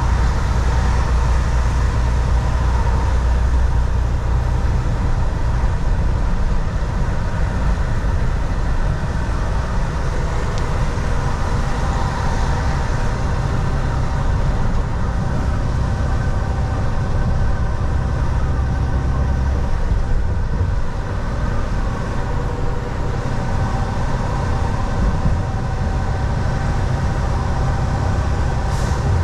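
Volvo VNL 760 semi truck cruising, its diesel engine drone and tyre and road noise heard from inside the cab: a steady heavy rumble with a few held tones above it. The deepest rumble eases about two-thirds of the way through, and a brief click comes near the end.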